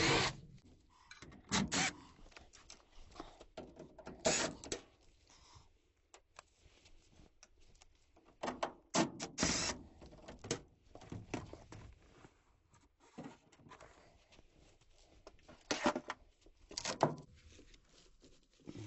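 Intermittent knocks, clanks and scrapes of gas furnace parts being handled and shifted during a heat exchanger replacement, with louder clusters of clatter several times.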